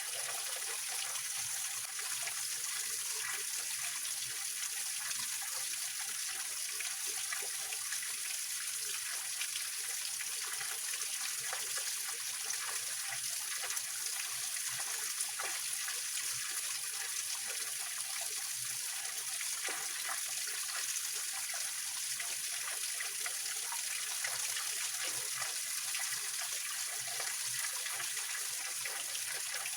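A small waterfall and mountain stream splashing and trickling over rocks: a steady, even rush of water with a fine bubbling texture.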